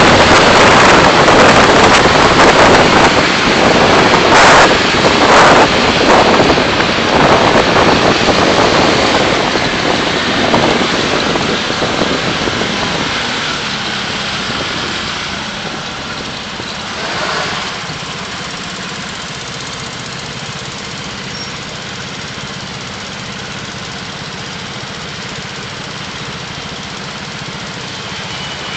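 Car road and engine noise heard from inside the cabin: loud rushing noise that fades away over the first half as the car slows, leaving a quieter steady engine hum, like idling at a stop.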